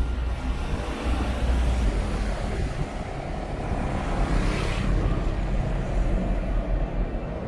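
Steady outdoor city noise with a deep low rumble and traffic hiss; a hiss swells and fades about four and a half seconds in.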